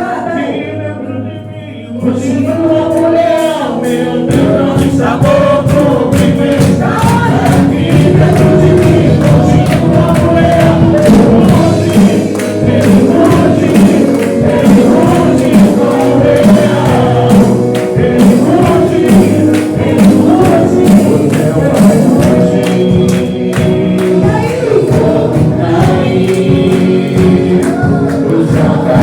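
Gospel worship music: a choir singing praise songs over a band. About two seconds in, the full band and percussion come in and the music grows louder.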